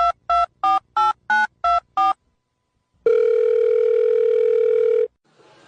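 Telephone keypad tones: a run of quick two-note beeps, about three a second, as a number is dialled. After about a second's pause comes one steady ringing tone on the line, lasting about two seconds.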